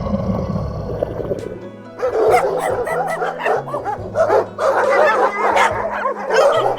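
Dogs yipping and barking in quick short high calls, starting about two seconds in, over background music with a steady bass line. Before that a low sound fades out.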